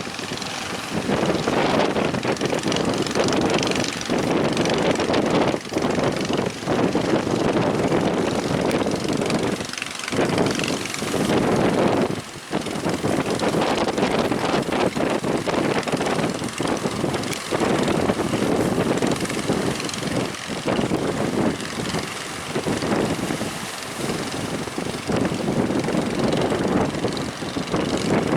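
A boat's engine running under heavy wind buffeting on the microphone, the rushing noise swelling and dipping unevenly.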